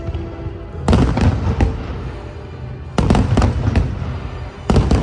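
Fireworks shells bursting in three clusters of bangs, about one second in, three seconds in and near the end, each with a few quick cracks after the main bang, over a steady low rumble.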